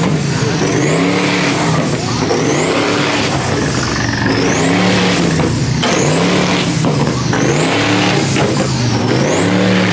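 Car engine revved over and over in an even rhythm, rising and falling about once every second and a half, with a high whine sweeping up and down along with the revs.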